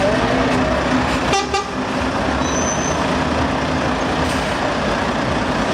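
Trucks driving past with a steady engine hum, and a short truck horn blast about a second and a half in.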